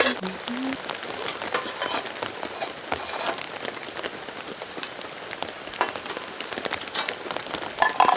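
Heavy rain falling steadily on a surface, with many sharp individual drop hits scattered through it.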